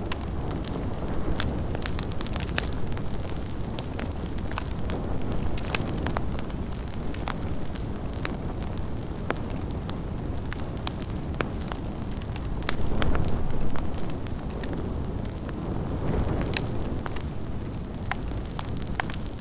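Fire burning: a steady rush of flames dense with sharp crackles and pops, swelling louder briefly about two-thirds of the way through.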